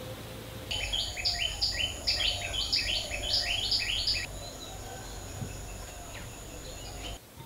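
A bird calling a quick series of short chirps, about four or five a second, for some three seconds, over a steady high-pitched insect whine and faint outdoor background noise.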